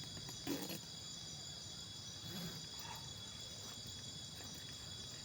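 Steady chorus of night insects, crickets, shrilling continuously, with a brief knock about half a second in.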